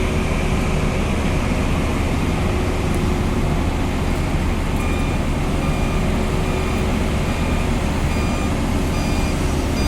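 Heavy engine running steadily with a deep rumble. From about halfway through, a faint beep repeats about once a second, like a vehicle's reversing alarm.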